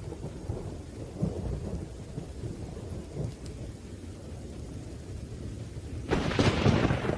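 Thunderstorm: low thunder rumbling under steady rain, then a sudden louder crack of thunder about six seconds in.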